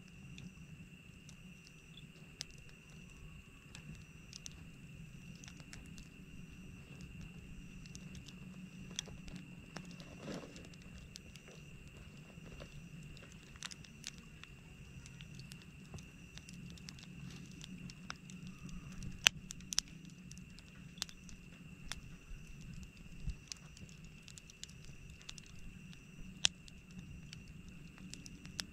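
Wood campfire crackling: irregular sharp pops and snaps, one now and then, over a faint steady background.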